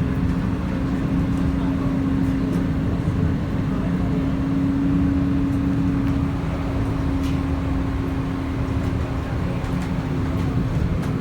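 İpek Böceği (Silkworm) tram running along the track: a steady low rumble with a steady motor hum on top, and a few faint clicks.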